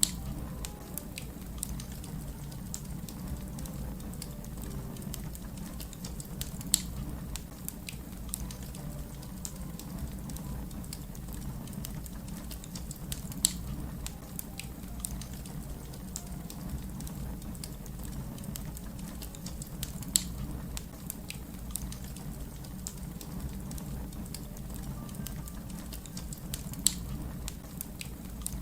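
Wood fire crackling: a steady low rumble under constant small crackles, with a sharp louder pop four times, evenly about seven seconds apart.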